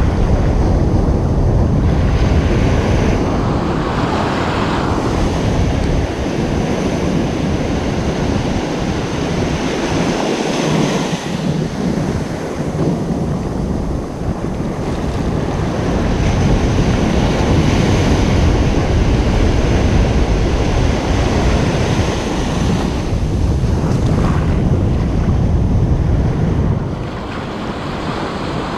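Ocean surf breaking and washing up the beach in rolling swells, with wind rumbling on the microphone. The wash eases off near the end.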